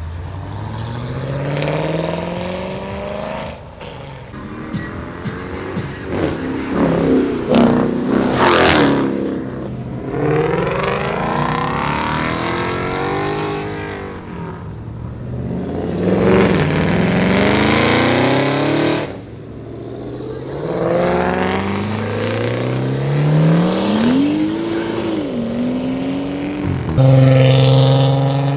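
Several cars accelerating hard past one after another, their engines revving. Each engine's pitch climbs and then falls away as it passes, with a loud new car starting up near the end.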